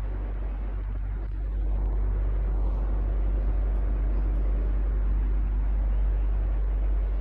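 Electric fan running steadily: a low hum under a broad rush of moving air, a little louder from about two seconds in.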